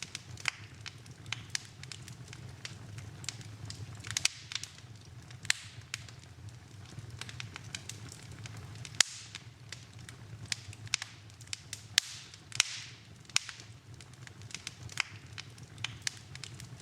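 Wood fire burning in a fireplace: irregular sharp crackles and pops, several a second, over a low steady rumble, with one louder pop about nine seconds in.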